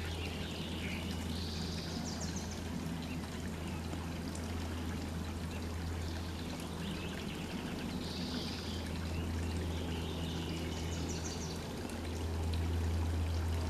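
Water trickling and splashing steadily in a garden pond, over a steady low hum, with a few short bird calls.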